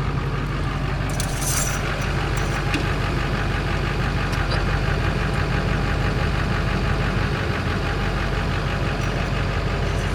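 A parts truck's engine idling steadily, running on its own shortly after being started. A few brief clicks sound about a second in.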